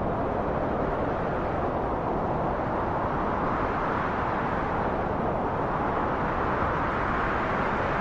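Wind blowing steadily, a continuous rushing noise that swells and eases slightly every few seconds.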